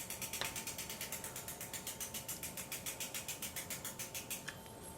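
Bicycle rear hub's freewheel pawls ticking as the wheel spins, an even run of about seven clicks a second that fades near the end.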